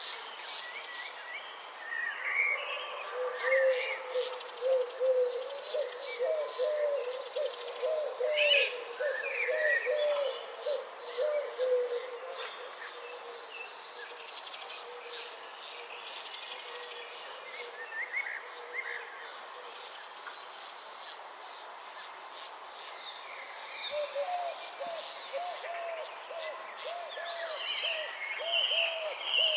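Nature ambience: an insect's high, steady buzzing drone that stops about two-thirds of the way in, with scattered bird chirps and a low call repeated in quick runs of notes, once early and again near the end.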